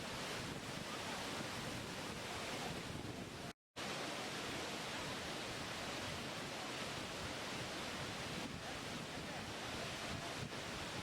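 Steady rushing of water, an even roar without pitch or rhythm, typical of a waterfall or surf. It drops out to total silence for a split second about three and a half seconds in, then resumes unchanged.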